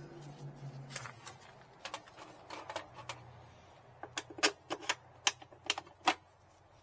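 A run of irregular sharp clicks and clacks, thickest about two-thirds of the way through: small hard parts being handled and fitted on a backup generator.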